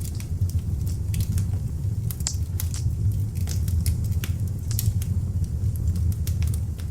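Beech-wood log fire in an open fireplace burning, a steady low rumble under frequent irregular sharp crackles and pops.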